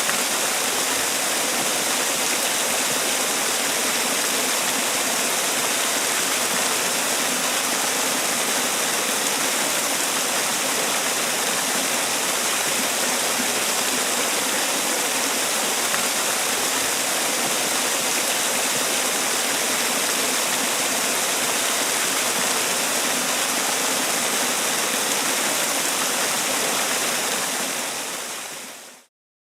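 Man-made waterfall: water falling and rushing in a steady, even hiss, fading out quickly near the end.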